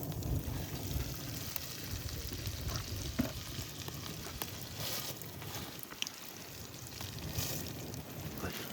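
Mudfish frying in hot oil: a steady sizzle with scattered small crackles and pops.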